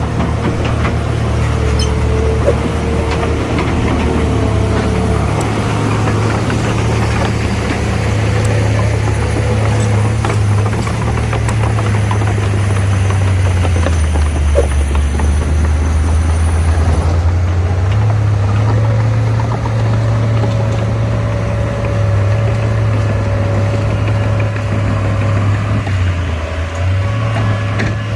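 Diesel engines of heavy earthmoving machines running under load. The deep engine note shifts up and down every few seconds, with a thin whine coming and going above it.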